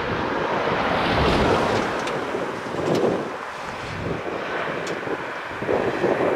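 Wind buffeting the microphone in uneven gusts over the jet roar of an Airbus A320neo landing.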